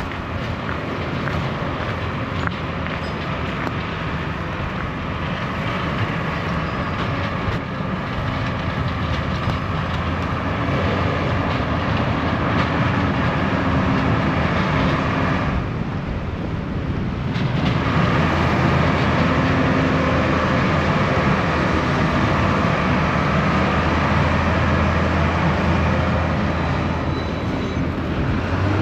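Street traffic: a large vehicle running close by, a steady rumble with a low hum. It dips briefly a little past the middle, then grows louder.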